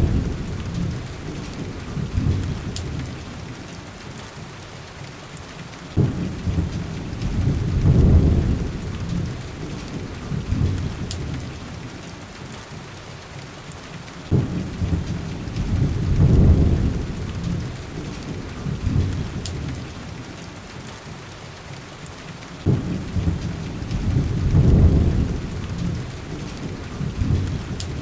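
Heavy rain hissing steadily on window glass, under a low rolling rumble that starts suddenly, swells and fades about every eight seconds. A few faint sharp clicks sound now and then.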